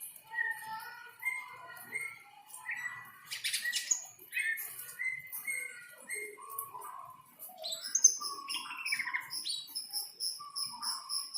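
Cucak ijo (green leafbird) singing a run of varied whistled and chattering phrases. From about two-thirds of the way through, a rapid, even, high-pitched pulsing joins it.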